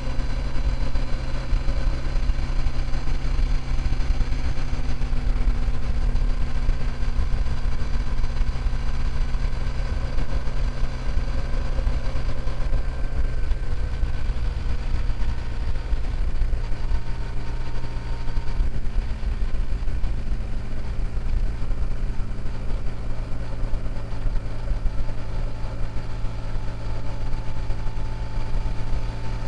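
Motorcycle engine running at steady cruising speed under heavy wind buffeting on the microphone; the engine pitch sags slightly around the middle and rises a little near the end.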